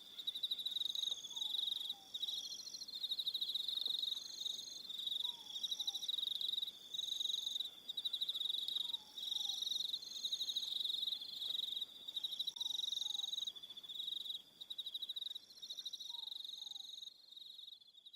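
Crickets chirping in the evening: several insects trilling at once in layers, the loudest a high, fast-pulsing trill that comes and goes in spells of a second or two. A faint falling two-note call repeats about every four seconds underneath, and everything fades out at the very end.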